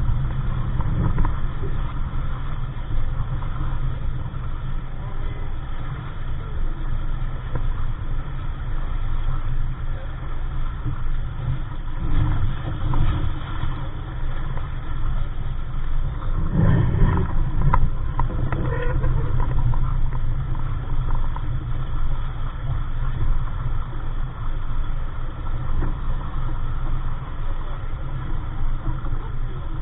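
Steady low rumble of wind buffeting the microphone aboard a small sailboat under way, with a short louder gust about two-thirds of the way through.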